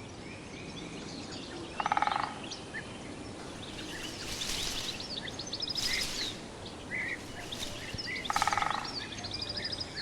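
Several wild birds calling, with many short high chirps and whistles, and twice a louder rapid rattling call, about two seconds in and again near the end.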